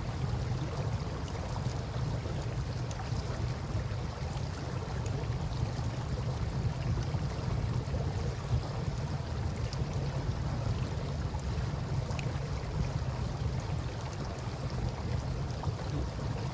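Campfire crackling beside a flowing river: a steady, low rush of water with faint scattered pops and snaps from the burning wood.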